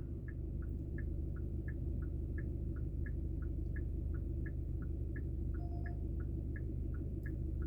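Car turn-signal indicator ticking, alternating higher and lower clicks about three a second, over the steady low rumble of the engine and road inside the cabin.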